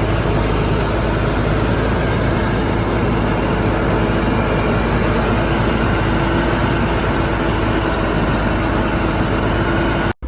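Shantui bulldozer's diesel engine running steadily under work, with a steady whine above the low engine hum. The sound cuts off suddenly near the end.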